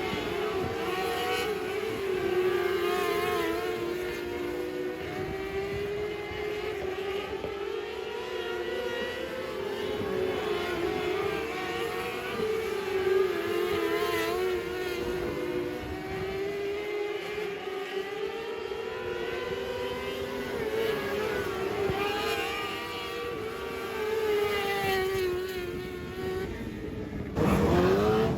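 Race car engines running hard at high revs, several pitches overlapping and rising and falling as the cars run laps. The sound turns suddenly louder near the end.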